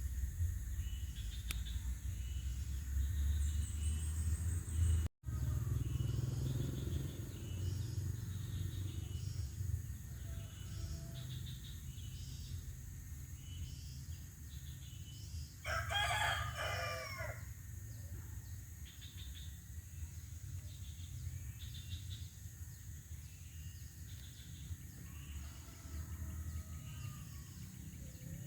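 A rooster crows once, loud and drawn out for about a second and a half, about halfway through. Around it there are repeated high chirps, a steady low rumble and a fainter call near the end. The sound cuts out for an instant about five seconds in.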